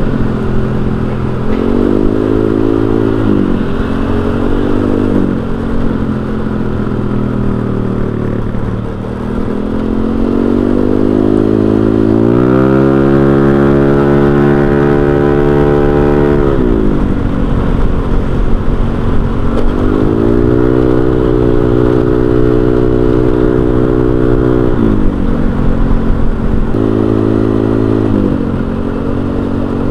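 Honda Vario 125 scooter's single-cylinder engine running through an aftermarket racing exhaust while riding. The pitch climbs as the throttle opens, holds steady for a few seconds, and falls as the rider eases off, several times over, the longest pull about a third of the way in.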